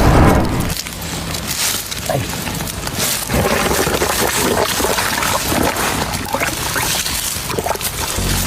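Natural gas escaping from a rock: a steady, hissing, watery rush that starts suddenly and grows a little louder about three seconds in.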